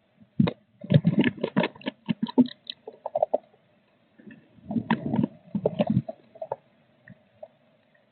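Blue tit moving about inside a wooden nest box: two bursts of quick scratching, rustling and tapping in the nesting material, with a few single taps in between.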